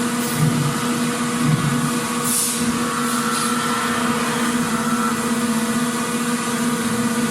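Factory machinery ambience: a steady mechanical hum over a noisy bed, with a low pulse about once a second in the first two seconds and a short hiss about two and a half seconds in.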